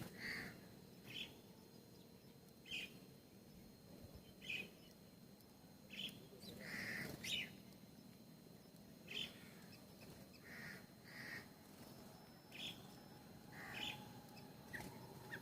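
Birds chirping: short, high chirps, one every second or two, over a faint low background rumble.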